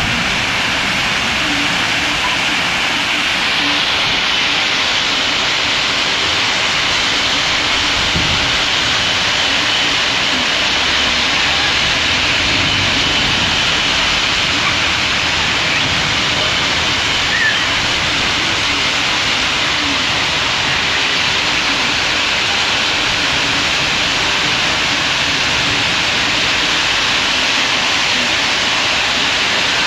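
Torrential cloudburst rain pouring down: a loud, steady hiss of heavy rainfall.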